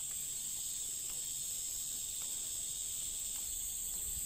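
Steady, high-pitched chorus of rainforest insects at dusk.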